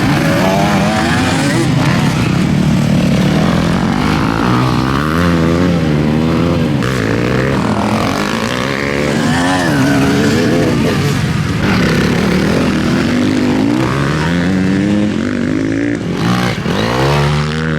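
Several motocross bikes racing, their engines repeatedly revving up and dropping back through gear changes, with several engine notes overlapping.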